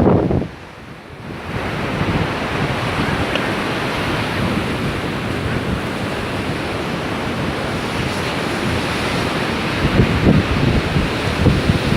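Sea surf breaking in a steady rush, with strong wind buffeting the microphone in low gusts that stop abruptly about half a second in and return near the end.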